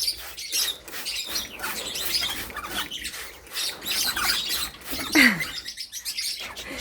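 Pet parrots chirping in quick, high, short calls, with one louder call sliding steeply down in pitch about five seconds in.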